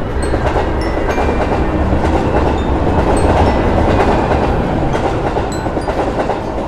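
Train passing, its wheels clicking over the rails, swelling to its loudest about halfway through and then easing off.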